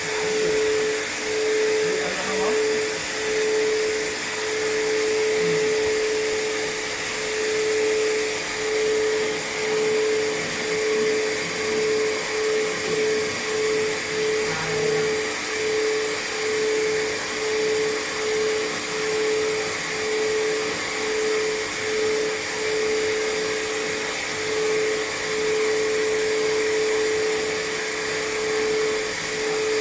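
Pet hair dryer blowing continuously while a cat's fur is dried: a rushing blast of air with a steady whine, its level swelling and dipping about once a second.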